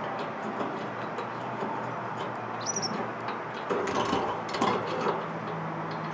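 A small bird gives one brief, high chirp about three seconds in, over a steady background hiss, followed a second later by a few sharp clicks or knocks.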